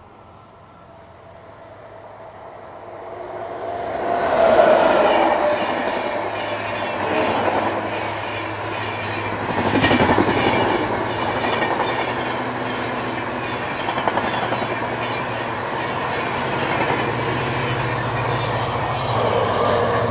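A train approaches and passes at speed. The sound swells over the first few seconds, then the carriages go by with a steady rumble and the wheels clatter rhythmically over the rail joints.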